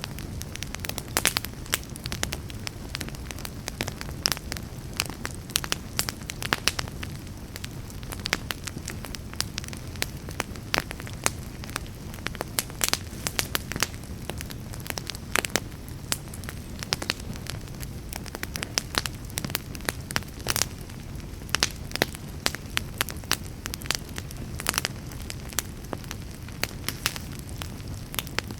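Wood fire burning in a fireplace, a steady low rumble of flames with frequent irregular sharp crackles and pops.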